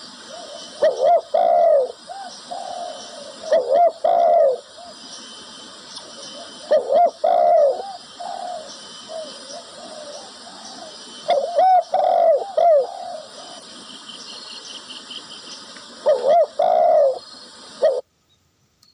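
Zebra dove (perkutut) cooing: five short warbling coo phrases a few seconds apart, over a steady high hiss. The sound cuts off suddenly near the end.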